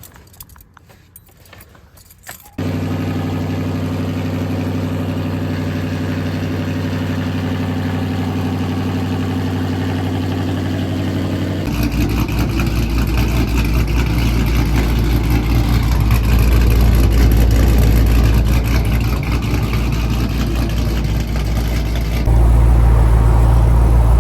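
Supercharged 5.7 Hemi V8 of a Dodge Charger R/T firing up suddenly about two and a half seconds in, after a few faint clicks, then running at a steady idle. About halfway through, the sound turns abruptly louder and rougher, and it steps up louder again near the end.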